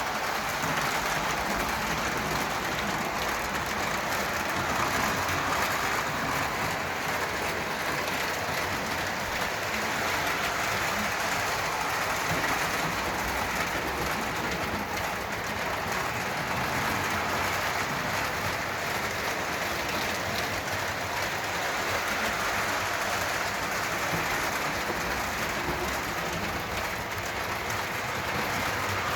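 Lionel O-gauge Conrail Rectifier electric locomotive running steadily around the track pulling a string of freight cars: a steady whir and rolling of the motor and wheels on the rails.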